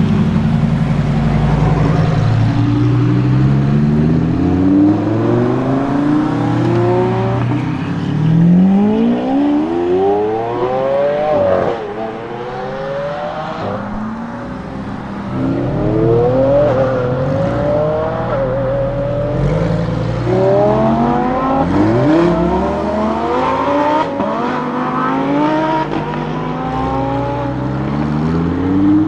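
Lamborghini Huracan STO's naturally aspirated V10 accelerating hard on track, its pitch climbing through each gear and dropping back at every upshift. At times a second engine note overlaps it, and the pitch falls away as a car goes past.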